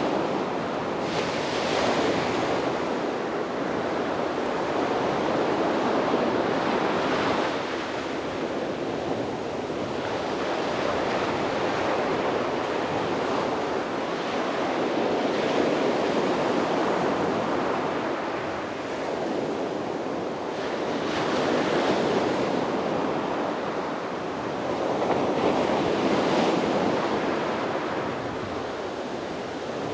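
Sea waves breaking and washing onto a beach, a steady surf that swells and eases every few seconds, with some wind noise on the microphone.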